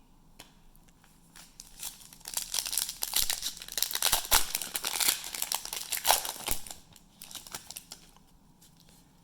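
Trading card pack wrapper being crinkled and torn open, a dense plastic crackle for a few seconds in the middle, with quieter handling before and after.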